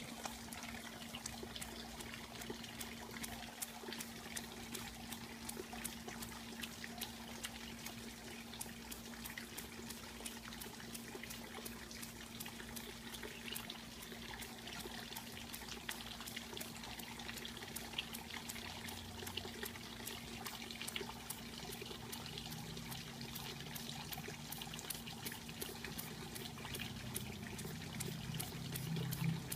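Water trickling and splashing continuously, with a steady low hum underneath.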